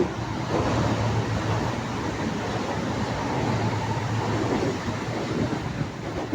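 Train running along the track, a steady rumble of wheels and carriage noise with a low hum underneath.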